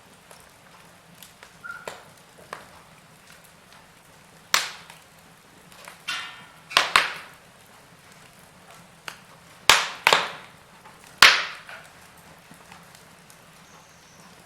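Wood fire in a fireplace, burning logs crackling. About half a dozen sharp snaps and pops stand out over a faint steady hiss, some of them in quick pairs.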